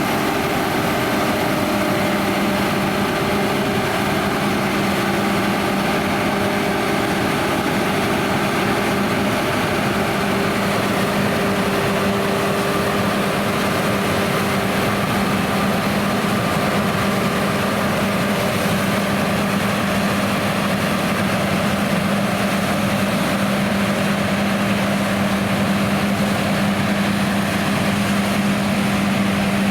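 John Deere X9 1100 combine harvester running steadily, with a constant low hum over the machine noise.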